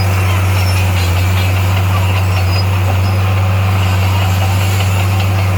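Heavy diesel engine of construction equipment running steadily at a constant low pitch, with light ticking over it.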